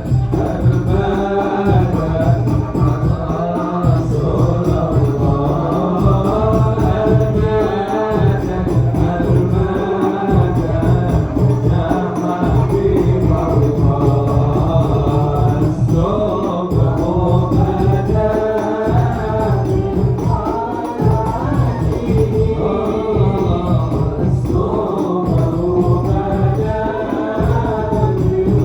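Arabic sholawat sung in a devotional chant over frame drums beating a steady rhythm.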